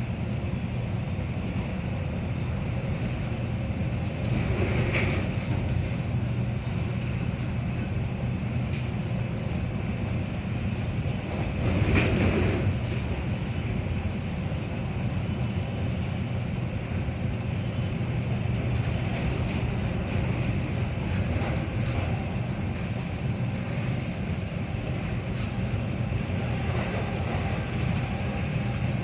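Metra commuter train running between stations, heard from aboard: a steady rumble of wheels on rail and motion noise. It swells briefly about five seconds in and more loudly about twelve seconds in.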